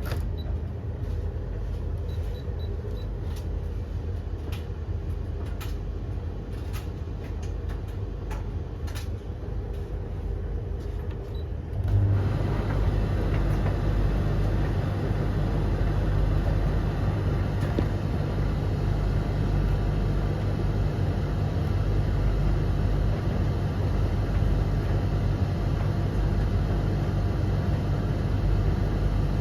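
Tumble dryers (Blomberg, Russell Hobbs and Hoover) running together with a steady low hum and faint light ticks. About twelve seconds in, another motor starts and the hum gets suddenly louder, then stays steady.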